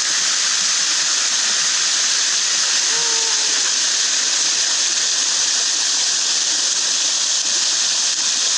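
A small jungle waterfall pouring into its pool: a steady, loud rush of falling water that does not change.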